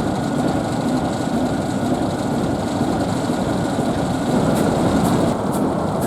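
ALCO RS-1 diesel locomotive idling, its six-cylinder ALCO 539 engine running with a steady rumble.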